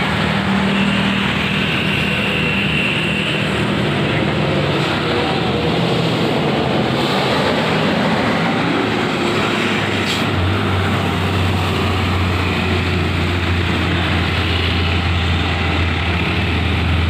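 Heavy truck engine running loudly amid road noise, with a deep engine drone that grows stronger about ten seconds in.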